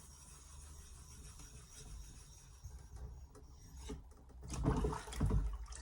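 Altstone RIN whetstone being rubbed flat, with scraping strokes that are faint at first and louder over the last second or so.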